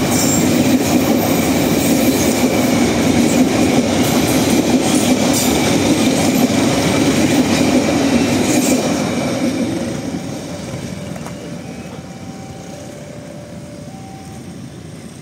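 A train rolling past, its wagons' wheels rumbling and clacking over the rails. The noise fades from about nine seconds in as the train moves away.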